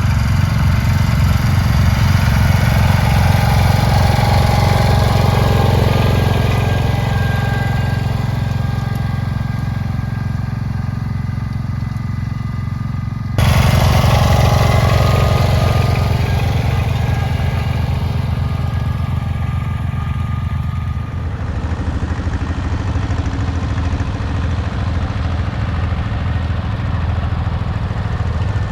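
Garden tractor engine running steadily. The sound steps abruptly louder about 13 seconds in and changes character again a little after 21 seconds.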